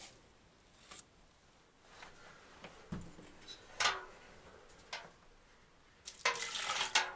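Scattered clicks and knocks of things being handled in a small room, with a dull thump about three seconds in and a busier clatter near the end.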